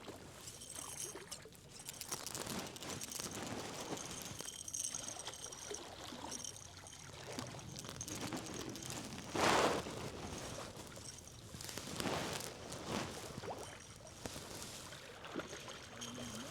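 Water trickling and sloshing around a fishing boat, uneven and fairly quiet, with one short louder rush of water about nine and a half seconds in.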